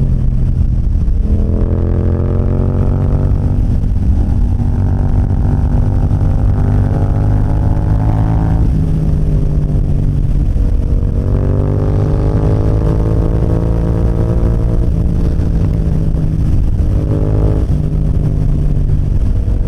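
Motorcycle engine accelerating through the gears: its pitch climbs for several seconds, drops back at each gear change and climbs again, over a steady low rumble.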